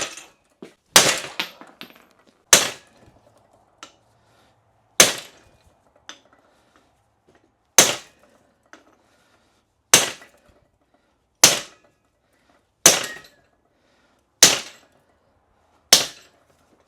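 Hammer blows driving a U-joint bearing cap out of a truck's front axle yoke, to free it past its retaining clip. About ten sharp strikes land one every one and a half to three seconds, each dying away quickly.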